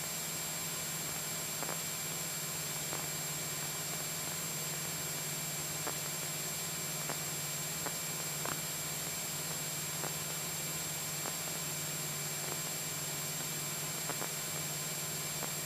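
Steady in-flight cabin noise of a Cessna 172SP: an even hiss with a low steady hum from its four-cylinder Lycoming engine and propeller in cruise, with a few faint clicks.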